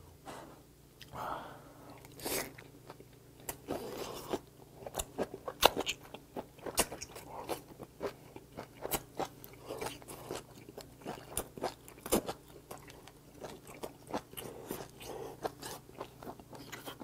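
A person chewing boiled hagfish close to a clip-on microphone: a run of irregular short clicks and smacks from the mouth, several a second.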